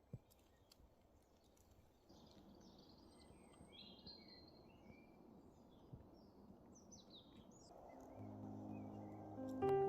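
Faint birdsong: a scatter of short chirps and gliding calls from small birds over a soft outdoor hiss.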